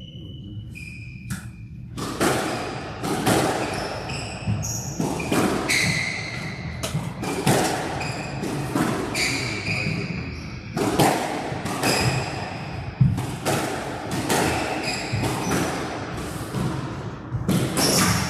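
A squash rally: a series of sharp smacks from racquets striking the ball and the ball hitting the walls, irregularly spaced, interleaved with short high squeaks of court shoes on the floor. It begins with the serve about two seconds in.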